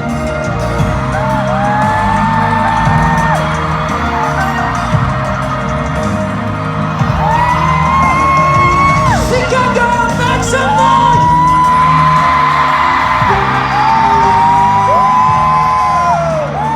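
Music playing over a stadium sound system with a steady low beat, and fans letting out long high-pitched screams that rise, hold and fall, several overlapping, more of them in the second half.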